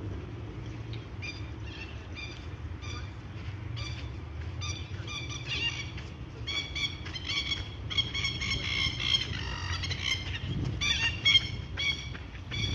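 Black swan cygnets peeping: many short, high calls, few at first and busier from about five seconds in.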